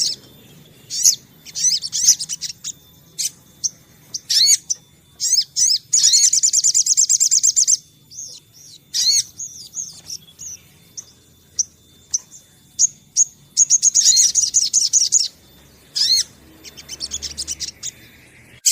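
A sogon (sogok ontong), a small songbird of the sunbird family, calling: high, rapid trills of one and a half to two seconds, about six seconds in and again near fourteen seconds, with sharp single chirps and short notes scattered between them.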